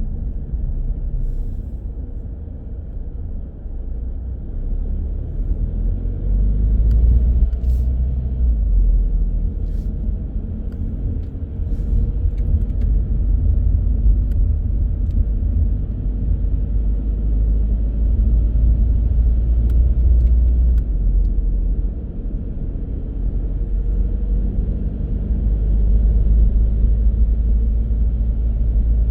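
A car driving: a steady low engine and road rumble with tyre noise, easing off about 3 s in and again about 22 s in, with a few faint ticks.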